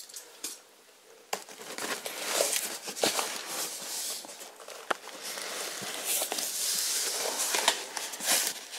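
Cardboard shipping box being opened by hand: crackling, scraping and rustling of cardboard flaps, packing tape and shredded-cardboard filler, with many sharp clicks. It starts about a second in and is busiest near the end.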